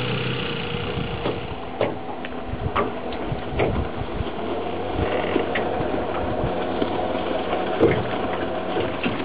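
A 1969 outboard boat motor running steadily, with scattered sharp clicks and knocks over it.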